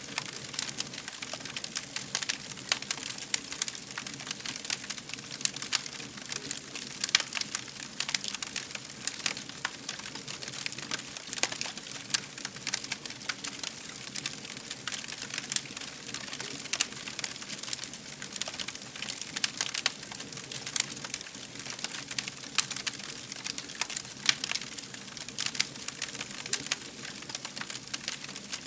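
Fire crackling steadily, with many irregular sharp pops and snaps over a soft continuous hiss.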